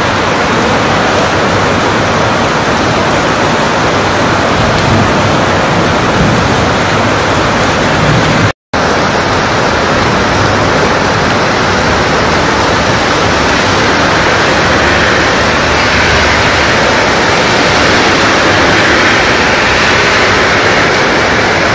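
Heavy rain falling steadily, a loud, even hiss. The sound cuts out completely for a split second about a third of the way in.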